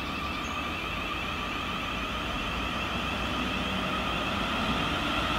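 Electric multiple-unit passenger train approaching along a station platform: a steady high whine from its motors over a rumble of wheels on rail, slowly growing louder.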